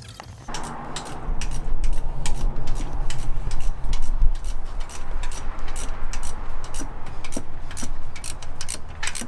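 Irregular sharp metallic clicks and knocks from tool work on the exhaust, over a steady low hum that starts about half a second in.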